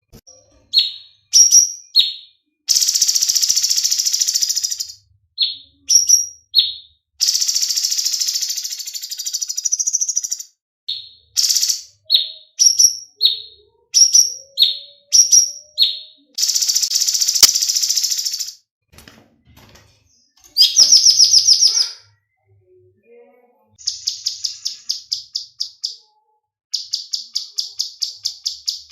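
Cucak cungkok singing loudly and continuously. Short sharp calls that drop in pitch alternate with long dense chattering phrases, and fast rattling trills of evenly repeated high notes come near the end, after a brief pause in the middle.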